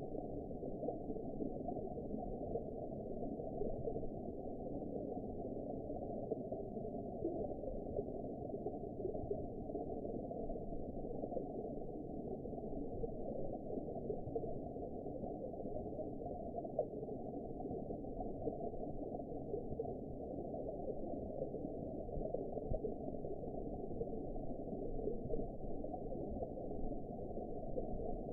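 Underwater ambience: a steady, muffled rush of water with no highs, even throughout and with no distinct events.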